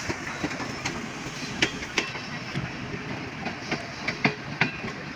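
Passenger train running on the rails: a steady rumble with irregular sharp wheel clacks over rail joints, a few each second, as the train pulls into a station.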